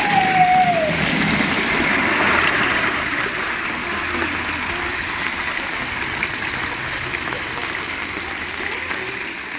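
Heavy rain pouring steadily, with water running and splashing, easing slightly in loudness over the seconds. A brief call falling in pitch sounds right at the start.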